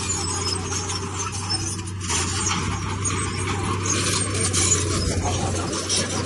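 Komatsu D31P bulldozer working stone: the diesel engine runs with a steady low hum under a constant clatter and scraping of steel tracks and rock.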